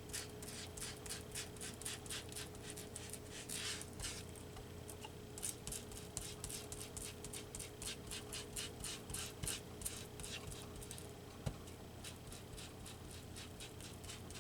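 Quick, repeated scrubbing strokes of a foam ink blending tool on paper, several a second, with short pauses now and then, over a faint steady hum.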